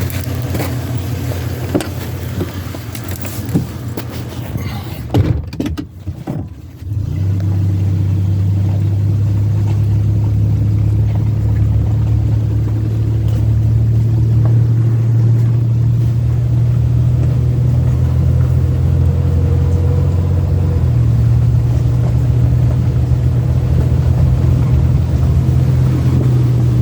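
Knocks and handling noise, then about seven seconds in an engine comes on and runs steadily with a low, even hum.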